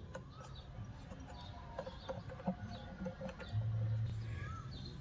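Faint bird chirps and short up-and-down calls, with a few small clicks and a brief low hum past the middle.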